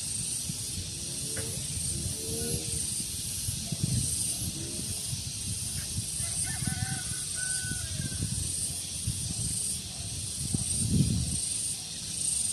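Outdoor daytime ambience: breeze rumbling on the microphone under a high, pulsing hiss, with a few faint pitched calls about a second in and again around the middle.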